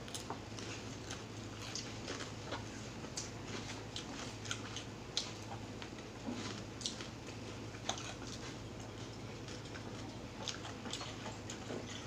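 Eating sounds: chewing with scattered short crunches, clicks and mouth smacks at an irregular pace, over a steady low hum.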